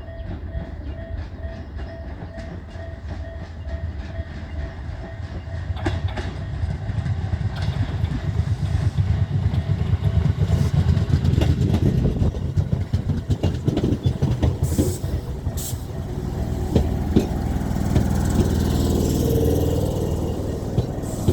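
Tobu Tojo Line train at the station, its wheels clattering over rail joints and growing louder from about six seconds in. A pulsing beep repeats rapidly through the first few seconds.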